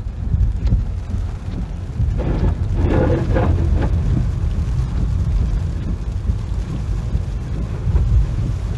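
Typhoon wind buffeting the microphone: a heavy, continuous low rumble, with a brief rush of higher, rougher noise between about two and four seconds in.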